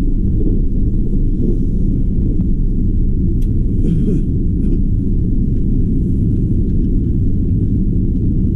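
Steady low rumble of a limited express train running on the track, heard from inside the train, with a few faint clicks between about three and five seconds in.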